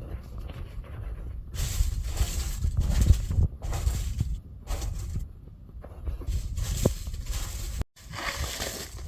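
Irregular rustling and crackling of dry leaves and twigs as a vervet monkey rummages through a leaf-packed foraging box, with a brief sudden gap near the end.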